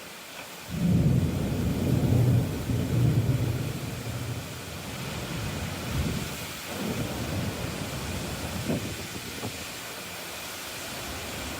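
Storm noise: a low rumble begins about a second in and fades over a couple of seconds, then settles into a steady hiss of rain and wind with a few smaller swells.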